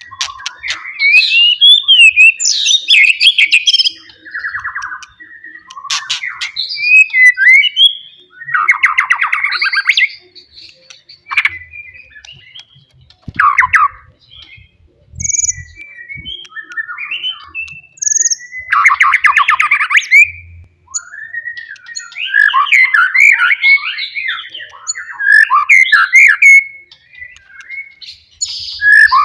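White-rumped shama singing loudly: varied phrases of gliding whistles, broken several times by dense, fast rattling notes, with short pauses between phrases.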